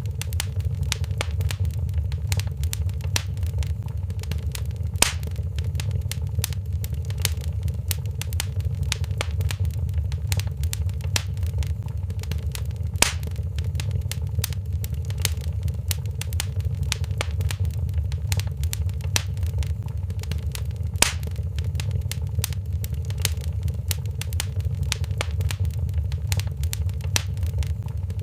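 Wood fire in a fireplace crackling: a constant patter of small sharp clicks over a steady low rumble, with a louder single pop about every eight seconds.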